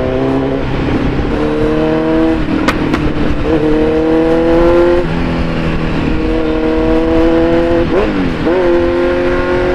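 Kawasaki Z900's inline-four engine through an Akrapovic full-system exhaust, pulling through the gears: the note climbs slowly, then steps down at each shift, several times. About eight seconds in the pitch dips and then shoots back up.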